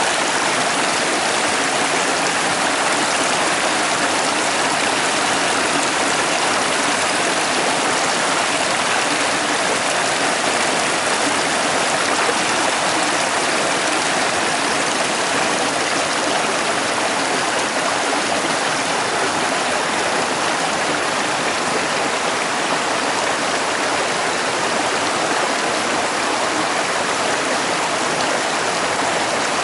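Mountain stream rushing steadily over rocks: the upper Prut river near its source on the slopes of Hoverla.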